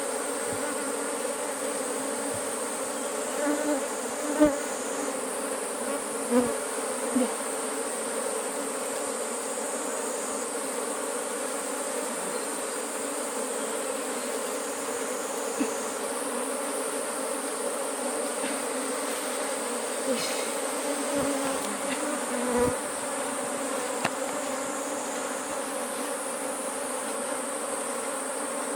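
Bees of a wild hive buzzing in a steady, dense hum, with a few brief louder buzzes as individual bees pass close, over a continuous high-pitched whine.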